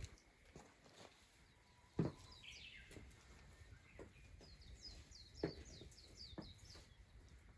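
Faint outdoor birdsong: a small bird gives runs of short, high, downward-slurred chirps. A few sharp knocks fall between them, the loudest about two seconds in.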